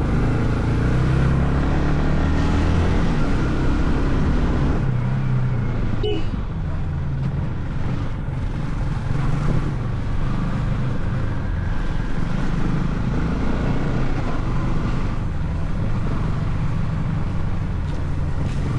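Yamaha R15 M's 155 cc single-cylinder engine running while riding, its note rising and falling with the throttle over wind and road noise. There is one sharp click about six seconds in.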